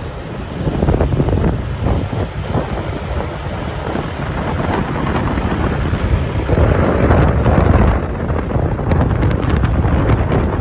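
Wind buffeting the microphone of a moving motor scooter, with a low rumble of road and traffic noise underneath. It swells louder about seven seconds in.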